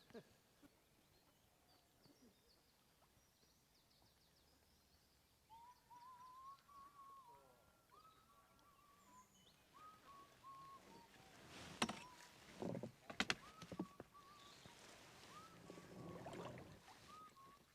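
Quiet outdoor ambience by a lake, with a bird calling in a run of short repeated notes from about a third of the way in. A cluster of sharp knocks comes past the middle.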